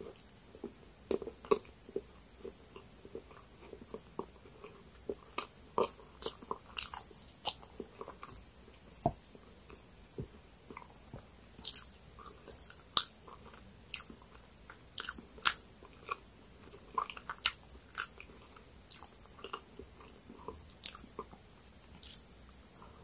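Close-miked chewing of soft layered chocolate sponge cake: wet mouth clicks and smacks at irregular intervals, a few of them sharp and loud, with the occasional light tap of a fork.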